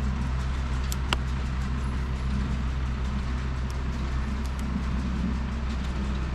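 An engine running steadily with a constant low hum, with a few faint clicks over it.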